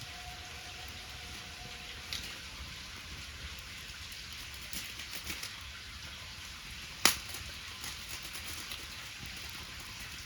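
Wood fire crackling, with scattered small pops over a steady hiss and one loud sharp pop about seven seconds in.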